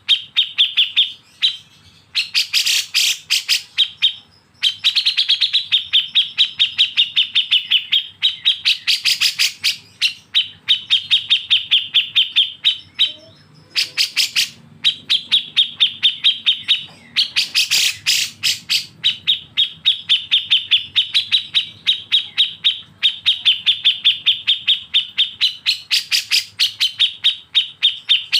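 Songbird giving a rapid, harsh chattering trill (besetan), strings of fast clicky notes at about ten a second, in long runs broken by short pauses.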